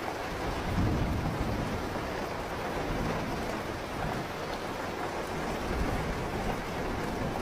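Steady rain falling, with a low rumble of distant thunder swelling about a second in.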